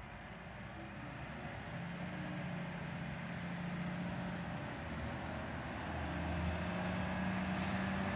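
A heavy truck's engine running and growing steadily louder as it approaches, with a low steady drone.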